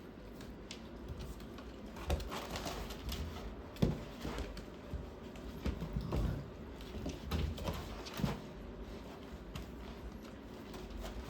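Puppies sniffing and rooting in a snuffle mat: irregular snuffles, rustles and small clicks, starting about two seconds in and easing off after about eight seconds.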